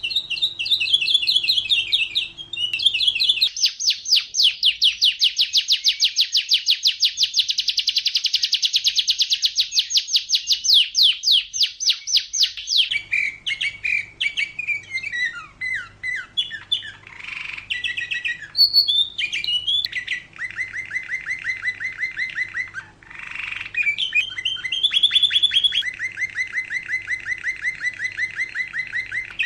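Domestic canary singing a long, varied song. A fast trill of rapidly repeated notes runs for about nine seconds, followed by chirped phrases and lower rolling trills.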